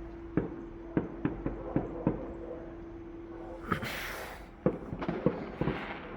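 Distant fireworks going off: a dozen or so irregular sharp pops and bangs, with a short hissing rush about four seconds in.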